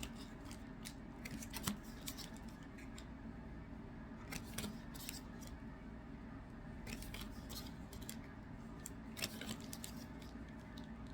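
Scissors cutting open MetaZoo trading-card booster packs: a run of short, irregular snips and clicks.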